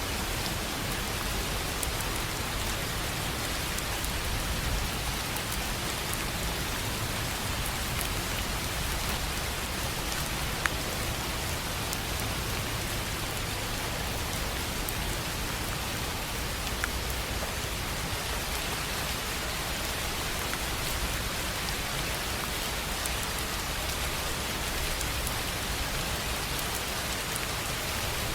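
Steady rain falling on a tin roof, with scattered individual drop ticks; two sharper ticks stand out about ten and seventeen seconds in.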